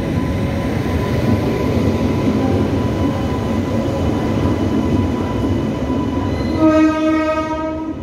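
Passenger train running through the station, its wheels rumbling steadily on the rails. Near the end a locomotive horn blows one steady note for just over a second.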